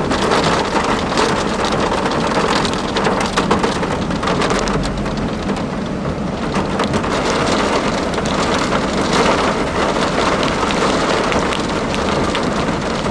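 Heavy rain beating down in a loud, steady, dense patter of drops.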